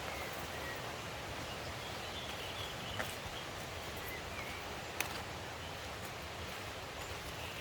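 Steady rushing of a forest stream, with faint short bird chirps over it and two sharp clicks about three and five seconds in.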